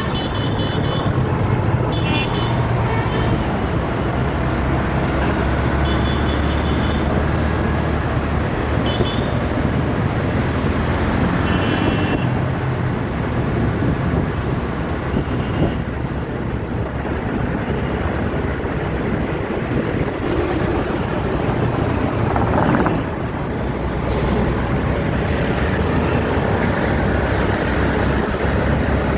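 Busy city road traffic: steady engine and road noise from passing vehicles, with several short horn toots in the first twelve seconds or so.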